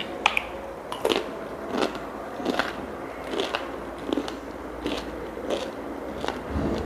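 Crispy batter-fried chicken coating crunching as it is bitten and chewed, a sharp crunch a little more than once a second.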